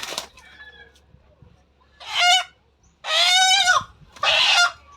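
A chicken caught in a home-made snare trap squawking in alarm: three loud, shrill squawks, the middle one the longest, about a second apart.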